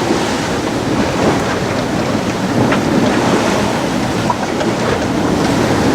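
Wind buffeting the microphone over the steady rush of sea and waves around a small sailing yacht under way.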